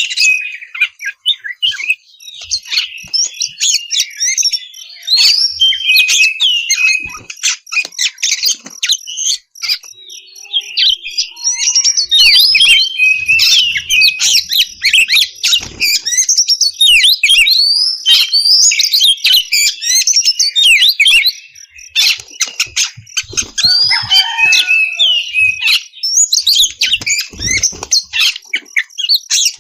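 Oriental magpie-robin singing loudly and without stop, a fast string of varied chirps, whistles and trills, broken by a few short pauses.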